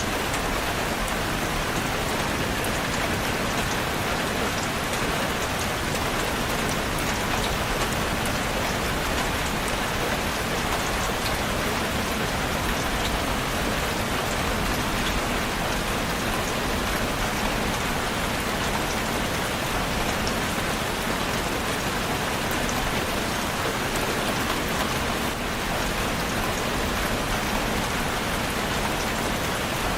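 Steady rain falling on a surface, an even wash of drops with no thunder or other events.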